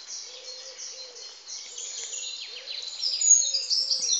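Small birds chirping and singing: many quick, high, falling notes, growing busier and louder in the second half.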